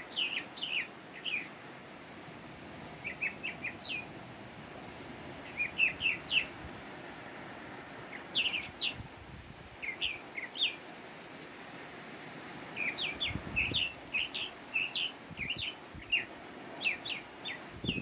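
A small songbird chirping in short bursts of three to six quick, high notes, repeated every couple of seconds, over a steady low background hiss.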